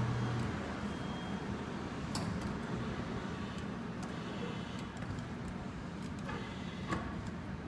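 Claw machine running as the claw is steered into position: a steady low mechanical hum over store background noise, with a couple of light clicks.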